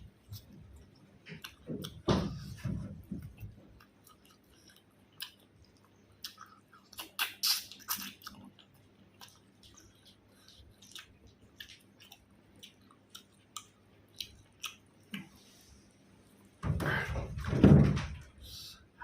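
Close-up chewing of food, with scattered short wet clicks and smacks of the mouth. There is a louder cluster about two seconds in and a louder stretch lasting about two seconds near the end.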